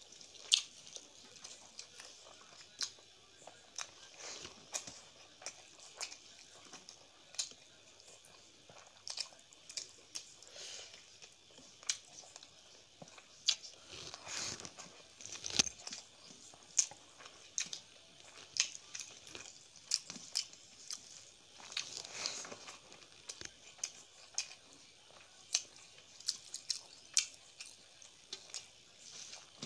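Close-up chewing and wet mouth smacks of someone eating rice and curry by hand, with irregular sharp clicks, and fingers mixing rice on a steel plate.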